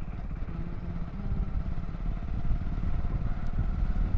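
Motorcycle engine running while riding, a steady low rumble of rapid firing pulses.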